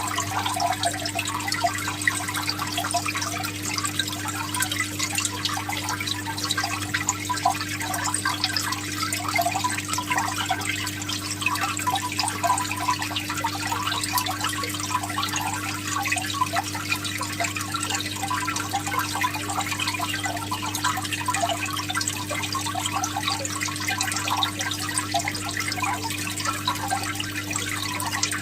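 Water trickling and bubbling steadily over a constant low electrical-sounding hum.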